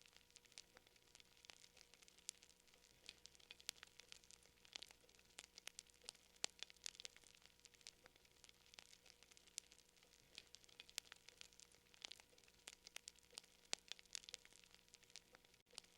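Wood fire crackling softly: irregular sharp pops and snaps, several a second, over a faint hiss.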